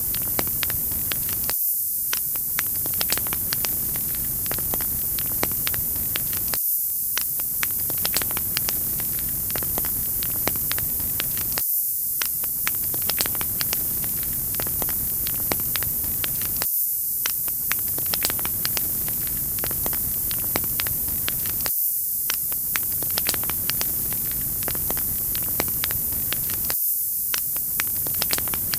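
Wood fire crackling in a fireplace: many small sharp pops and snaps over a steady hiss. The same short stretch of sound repeats about every five seconds.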